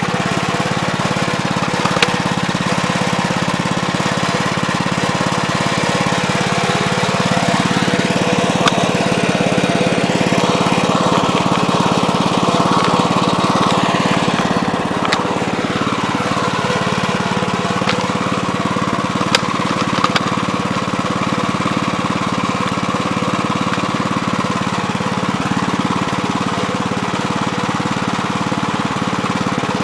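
Gravely Terramite compact backhoe's engine running steadily, its pitch rising and falling a few times in the first half as the machine works, with a few sharp clicks or knocks.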